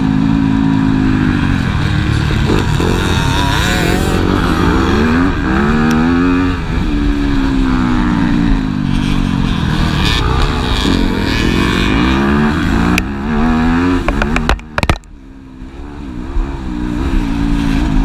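Motocross bikes revving hard. Their engine pitch repeatedly climbs and falls as they accelerate and change gear. About fifteen seconds in, the engine sound drops away sharply for a moment after a few clicks, then builds back up.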